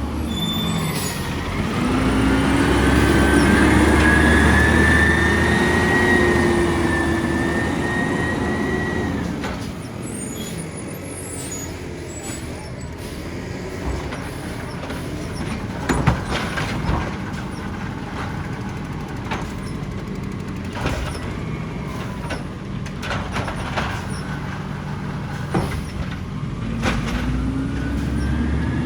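Side-loader garbage truck working: the engine revs up to drive the hydraulics, rising in pitch and holding for several seconds before dropping back to idle. Knocks and clanks and a brief air hiss follow.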